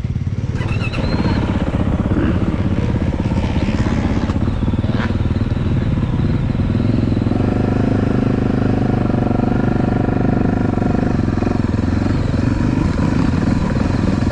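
Yamaha YZ450F four-stroke single-cylinder motocross engine running steadily, with no big revs.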